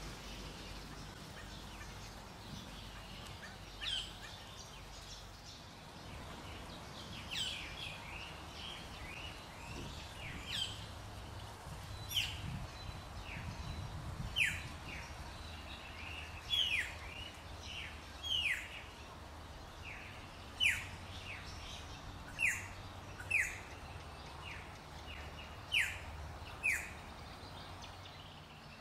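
Birds calling: many short, sharp notes that each drop in pitch, coming irregularly and more often after the first several seconds, over a faint steady low rumble.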